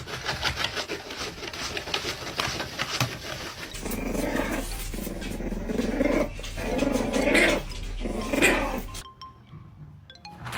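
Puppy growling in a run of short, separate bursts during rough play, starting about four seconds in and stopping about a second before the end. Before the growls there is a dense rustling, scratching noise.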